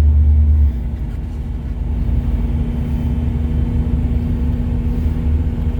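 1967 Cadillac V8 running under way, heard as a steady low engine and road rumble inside the car's cabin, with a steady hum over it. The rumble drops in level about a second in, then slowly builds again.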